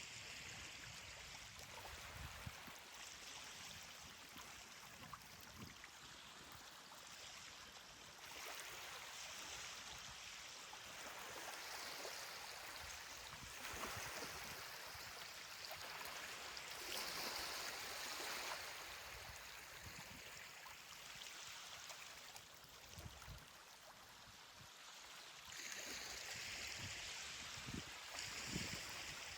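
Ocean surf washing on a beach: a continuous hiss of breaking waves that swells and fades over several seconds at a time.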